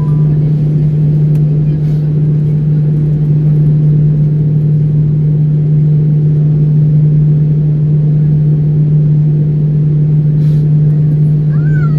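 Steady low drone inside an airliner cabin after landing, a constant deep hum with a rumble beneath it. A few short rising and falling tones come in near the end.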